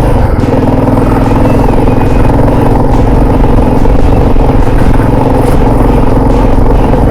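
Motorcycle engine running steadily at an even pitch while the bike is ridden.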